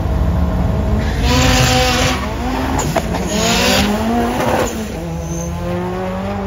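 Two turbocharged drag cars, one of them a single-turbo Mazda FD RX-7, launching and accelerating hard down the strip. The engine note rises, breaks at a gear change about two and a half seconds in, then rises again and fades as the cars pull away.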